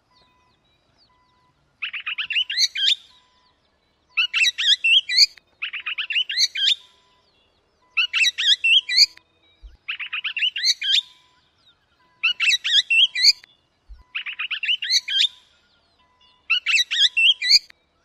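A songbird's song: one short phrase of fast rising and falling chirps, repeated seven times at even intervals starting about two seconds in, each repeat the same as the last.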